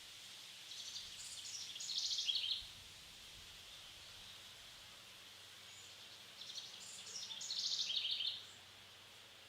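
A songbird singing two rapid, chirpy trilled phrases of about two seconds each, the second about five seconds after the first, over faint steady background hiss.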